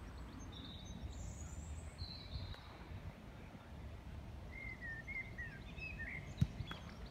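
Outdoor ambience: small birds chirping in short high twitters, over a steady low rumble. One sharp click about six seconds in.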